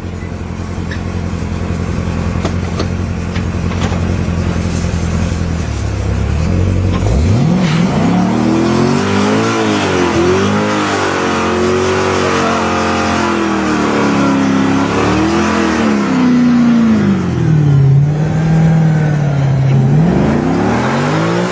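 Chevrolet Corvette Z06 V8 idling steadily, then revved hard about seven seconds in and held at high revs, its pitch rising and falling over and over. The rear tyres spin in a smoky burnout, adding a hiss beneath the engine.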